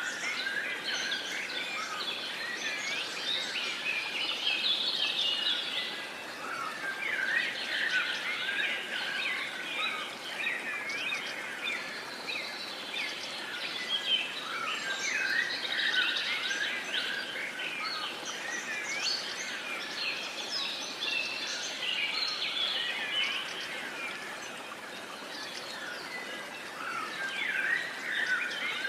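A chorus of many wild birds chirping and singing at once, dense and unbroken, over a faint steady hiss of outdoor ambience.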